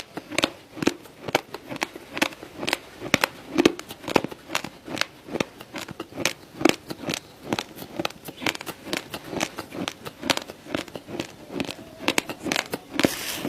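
Raw, uncooked rice being chewed: rapid, irregular crisp crunches, several a second.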